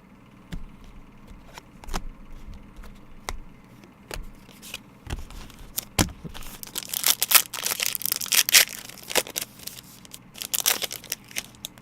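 A trading-card pack wrapper is torn open and crinkled, among scattered clicks and taps of cards being handled. The tearing and crinkling is loudest in the second half.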